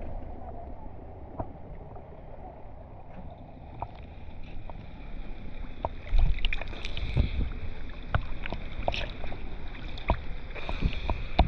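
Small boat under way on the sea: steady motor and water noise, with scattered knocks that are loudest about six seconds in.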